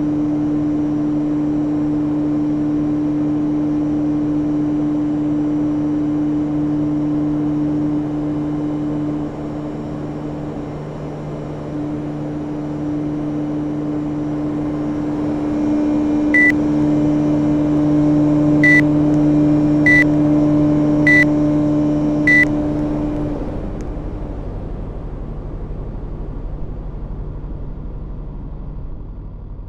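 Panasonic inverter air conditioner running with a steady hum. It gives five short high beeps, a second or two apart, then the hum cuts off and the fan noise dies away.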